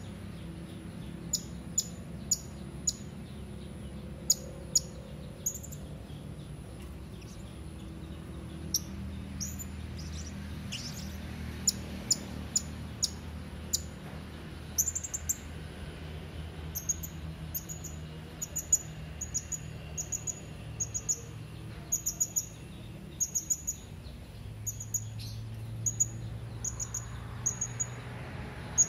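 Hanging parrot (serindit) calling: sharp, very high-pitched short chips, scattered at first, then from about halfway a quick regular run of about one or two calls a second. A low steady hum lies underneath.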